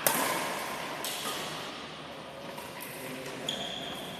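A single sharp badminton racket hit on the shuttlecock at the start, ringing on in the echo of an indoor sports hall, then a brief high squeak near the end.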